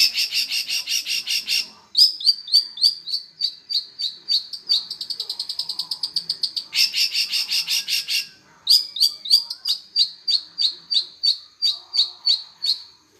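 Long-tailed shrike (cendet) singing loudly: fast trills of sharp, high repeated notes alternating with slower runs of downslurred chips, broken by a short pause about two-thirds of the way through.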